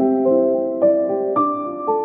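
Soft background music: a gentle piano-like keyboard melody with sustained notes, a new note about every half second.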